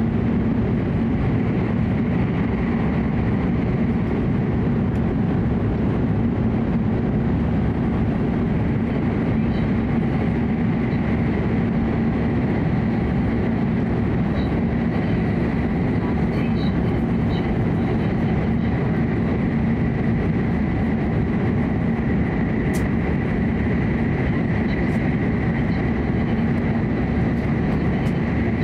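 Steady cabin running noise of a Hokuriku Shinkansen train: an even rumble with a faint high steady whine that becomes clearer about halfway through.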